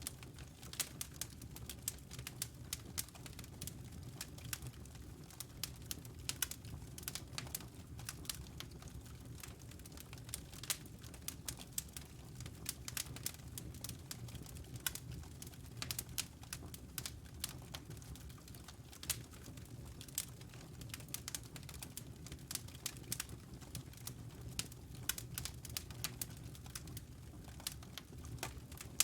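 Wood logs burning in a fireplace, crackling with frequent irregular sharp pops and snaps over a steady low rumble of the flames.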